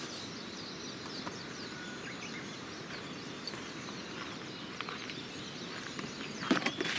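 Early-morning outdoor ambience of small birds chirping here and there over a steady hiss. A few short, sharp cracks come near the end.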